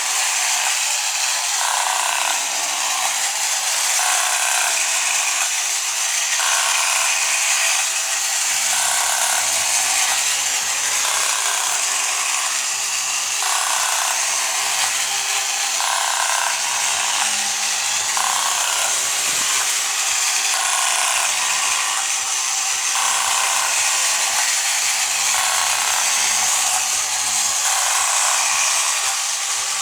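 1960s Masudaya tin battery-operated bump-and-go pirate ship running: its small motor and gears going with a continuous rasping from the shaken sail, pulsing about once a second.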